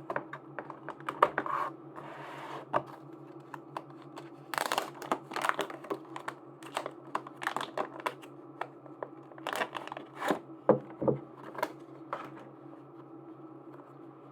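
Plastic packaging being handled and unwrapped: irregular crinkling with sharp clicks and taps, and short tearing sounds, over a faint steady hum.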